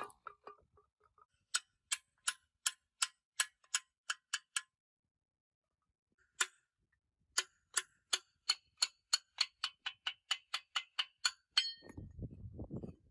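Sharp metallic clicks with a short ring, evenly spaced at about two to three a second, in two runs with a pause of a couple of seconds between. Near the end a low rumbling noise takes over.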